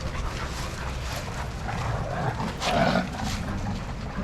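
Dogs making short vocal sounds while they play, several of them about two to three seconds in, over a steady low rumble.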